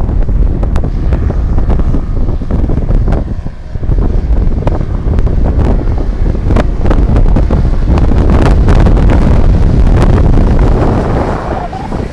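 Strong wind buffeting the microphone in loud, gusty rumbles with crackles, loudest about two thirds of the way through.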